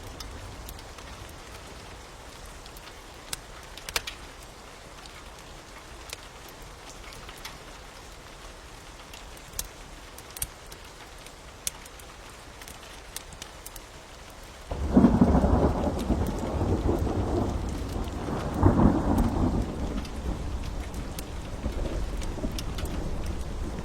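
Steady rain with scattered sharp crackles of a wood fire. About fifteen seconds in, a loud rumble of thunder breaks in, swells again a few seconds later and dies away slowly.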